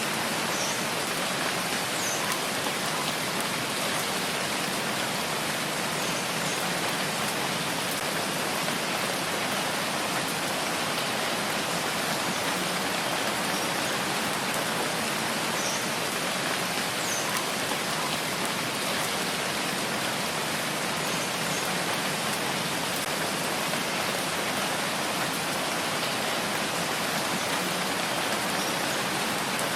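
Steady rain falling: a dense, even hiss that does not change, with a few faint high ticks now and then.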